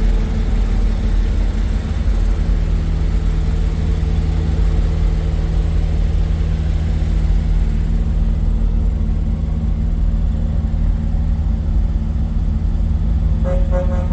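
Diesel semi-truck engine idling with a steady low rumble. Near the end a truck horn starts to sound.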